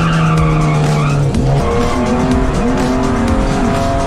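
Ford AU Falcon's engine heard from inside the cabin while sliding on a wet track, held steady at high revs, dropping about a second and a half in, then rising and falling repeatedly with the throttle, with tyres skidding in the first second.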